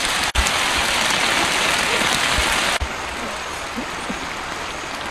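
Bullfrogs and snails frying with chillies in hot oil in a large wok, a steady sizzle that drops to a softer hiss a little before three seconds in.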